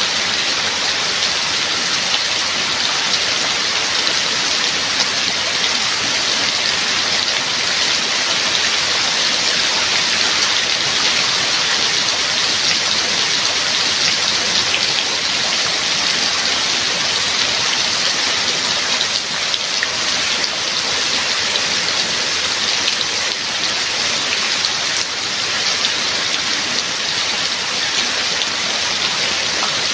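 Steady heavy rain falling, an even hiss of drops on surfaces with fine individual drop ticks.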